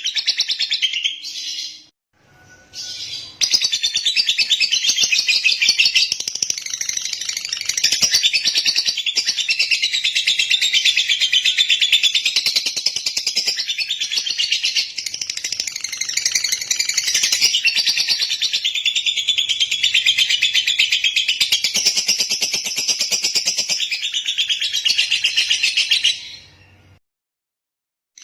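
Lovebird's long chattering song, a rapid high-pitched trill. A short burst and a brief pause open it, then it runs unbroken for over twenty seconds and stops near the end.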